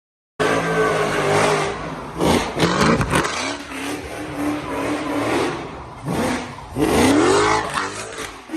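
Car engine revving hard, its pitch dropping about two to three seconds in and climbing again around seven seconds. It cuts in suddenly out of silence.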